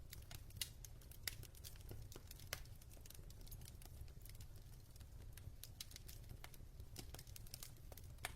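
Quiet crackling of a wood fire in a fireplace: irregular small pops and snaps, a few louder than the rest, over a low steady hum.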